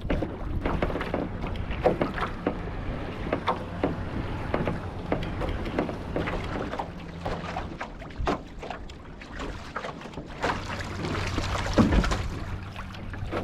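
Water splashing and rushing around a Draco OC-1 outrigger canoe as it is paddled, with irregular paddle-stroke splashes.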